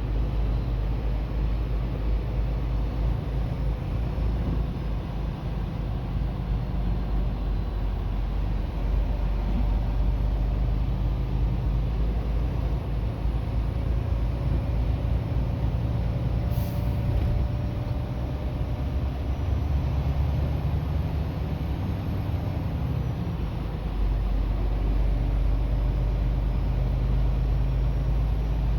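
Winter-storm wind buffeting the microphone: a steady, heavy low rumble that swells and eases, with one brief click about seventeen seconds in.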